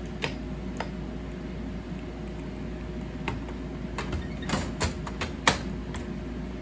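Scattered sharp clicks and light knocks from hands working at an opened slot machine's buttons and wiring, loudest about five and a half seconds in. They sit over the machine's steady electrical hum.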